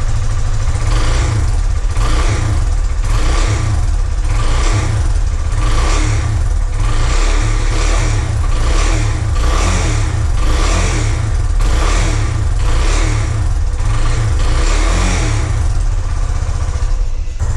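Yamaha Fazer 250 single-cylinder engine running with the throttle blipped in short surges about once a second.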